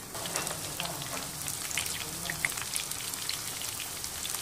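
Breaded pork cutlets shallow-frying in hot oil in a pan: a steady sizzle thick with small crackles and pops, a little louder from the start.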